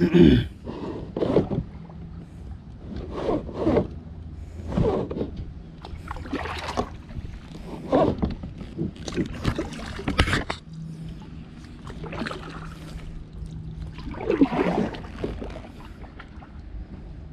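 Kayak paddle strokes: about a dozen splashes as the blade dips and pulls through the water, at an uneven pace of one every second or two, over a faint steady low hum.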